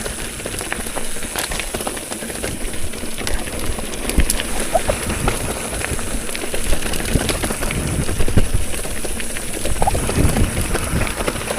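Mountain bike riding over a rough, broken road: a steady rolling noise with many small rattles and clicks, over a low rumble.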